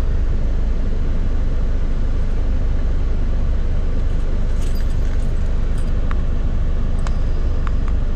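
Car engine idling steadily, with a few light clicks and clinks in the second half.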